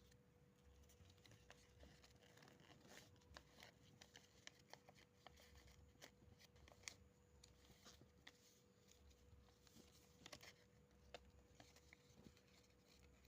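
Faint crinkling and rustling of paper being folded by hand, with scattered small clicks, over a faint steady hum.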